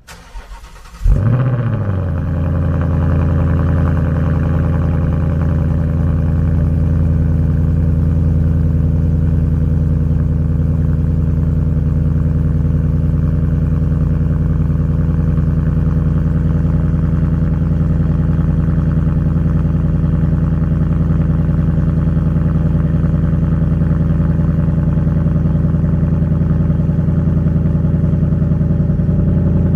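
2020 Ford Mustang GT's 5.0 V8 on its stock active exhaust, starting with a loud rev flare about a second in. The revs drop and it settles into a steady idle.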